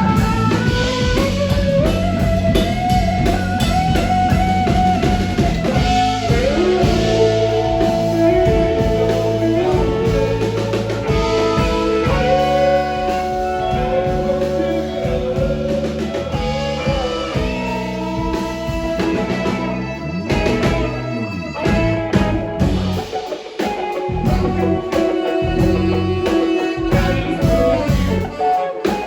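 Live blues-rock band playing an instrumental passage: a guitar plays a lead line of sustained, bending notes over a drum kit. About two-thirds of the way through, the low end thins out and the playing turns sparser.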